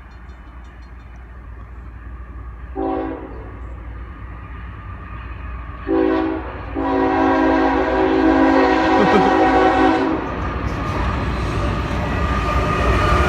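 Approaching Norfolk Southern freight locomotives sounding their multi-chime air horn: a short blast about three seconds in, another about six seconds in that runs straight into a long blast of about three seconds. Under the horn, a low rumble of the engines and train grows steadily louder as it nears.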